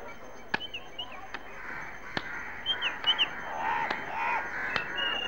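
Birds chirping, with two louder arched calls about three and a half to four seconds in, over the faint hiss of an old film soundtrack with several sharp clicks.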